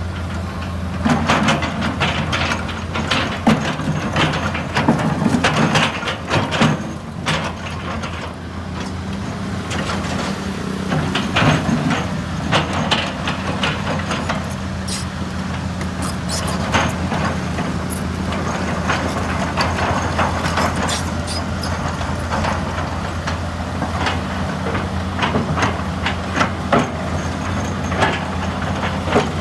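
Excavator's diesel engine running steadily under work, with frequent sharp clanks and knocks scattered through.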